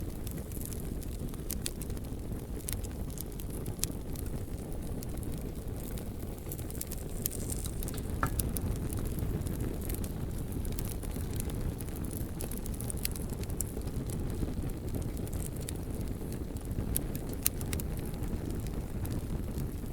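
Bonfire burning steadily: a low rumble of flame with scattered sharp crackles and pops from the burning wood.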